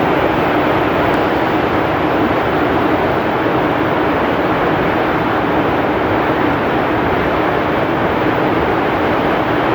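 Heavy rain pouring steadily, a loud, even hiss without let-up, with strong wind mixed in.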